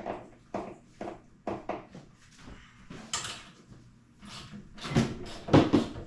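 Irregular metal knocks and clanks of tools and hardware being handled during garage door torsion spring work, the loudest near the end.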